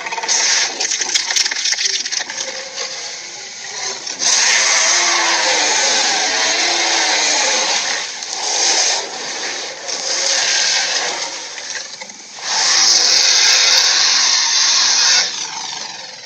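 Cartoon sharptooth dinosaur sound effects: a run of long, harsh, raspy screeches, several in a row, some lasting a few seconds each.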